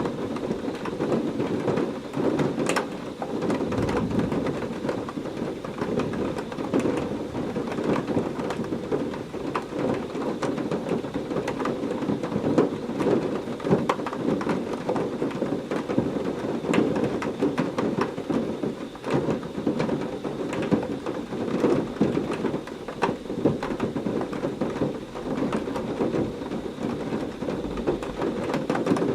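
Heavy rain falling steadily, a dense patter full of sharp individual drop hits. Low rumbles of distant thunder swell up about four seconds in and again near the end.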